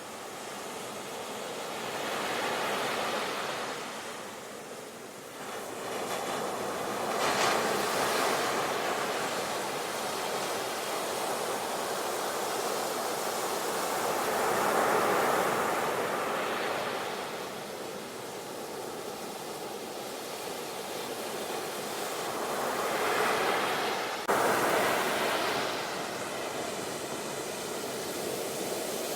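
Sea waves breaking and washing on the shore, the surf swelling and fading every few seconds. One abrupt jump in loudness comes about 24 seconds in.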